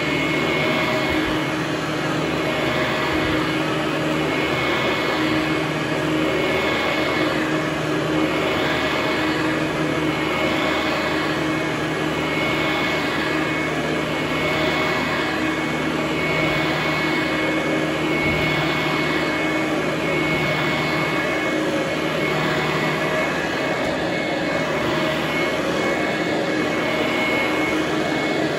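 Vintage Hoover Conquest commercial direct-air upright vacuum cleaner running steadily on carpet: a continuous motor and fan noise with a thin high whine.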